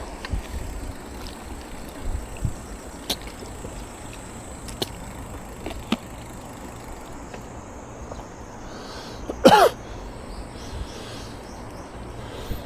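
Steady wind and riding noise of a bicycle ride on an action camera, with a few faint clicks and, about nine and a half seconds in, one short loud squeal that wavers in pitch.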